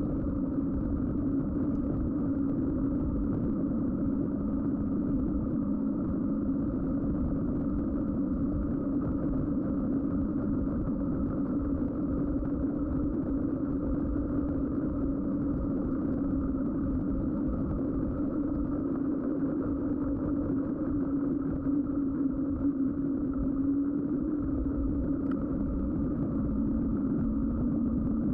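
Mountain bike's Schwalbe winter tyres rolling on the road: a steady hum over a low, uneven rumble.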